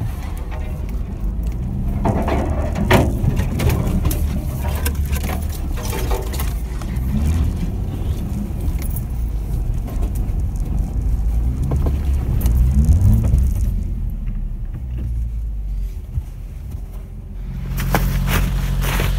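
Car engine running, its revs rising and falling several times, with rattling and clunking over it.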